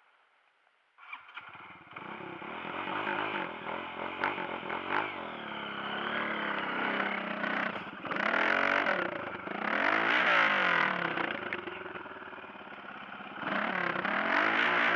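Off-road motorcycle engine starting about a second in, then running and being revved up and down several times, with the loudest revs near the middle and near the end.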